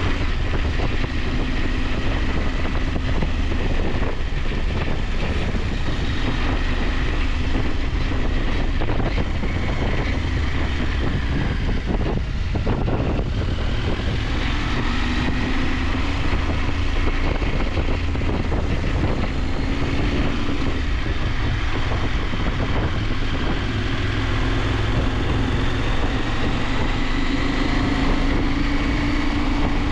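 KTM 890 Adventure's parallel-twin engine running under way, with wind rushing over the microphone. The engine note rises and falls gently with the throttle and drops briefly about twelve seconds in.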